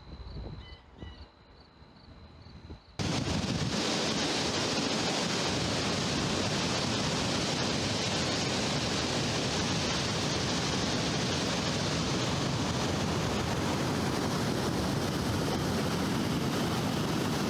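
Water rushing over a dam, a loud steady roar with no rhythm, which cuts in abruptly about three seconds in after a quiet opening.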